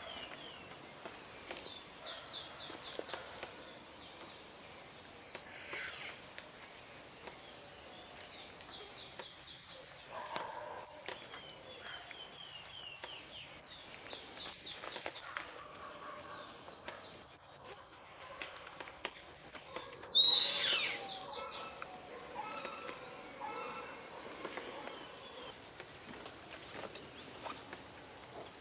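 Insects droning steadily at a high pitch, with a faint fast ticking, while birds call in runs of short falling notes. About twenty seconds in, one loud bird call stands out above the rest.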